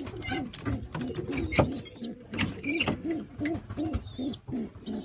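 Pigeons cooing in the loft: a steady run of short coos, each rising and falling, about three a second. A few sharp clicks and brief high squeaks are mixed in.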